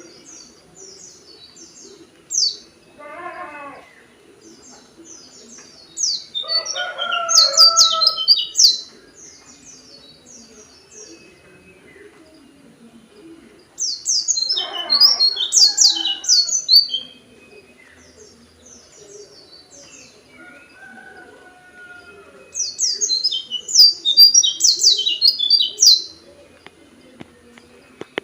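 White-eye (pleci) singing in four bouts of rapid, high chattering phrases, each lasting a few seconds, with pauses between them. Lower-pitched calls from another bird sound under some of the bouts.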